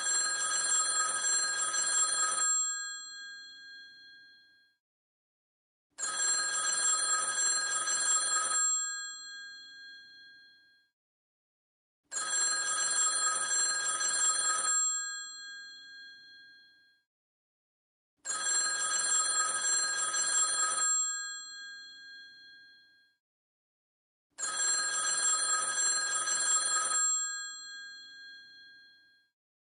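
Old telephone's mechanical bell ringing: five rings of about two and a half seconds each, one every six seconds, each ending with the bell's tone dying away.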